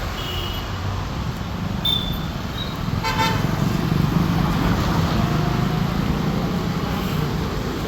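Road traffic passing, with one short vehicle horn honk about three seconds in and the rumble of passing vehicles swelling just after it.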